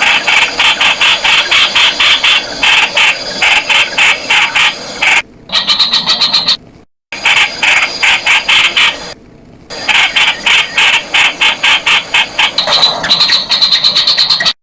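Streak-eared bulbul calling: a fast run of short, harsh repeated notes, about five a second. There is a short break a little past the middle.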